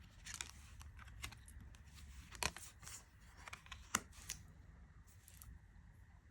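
Tarot cards being handled and drawn from the deck: faint soft rustles and light clicks of card stock, with two sharper clicks about two and a half and four seconds in.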